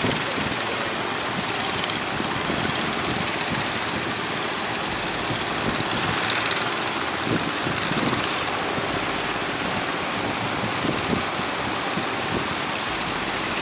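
A boat engine running under a steady rush of surf and wind.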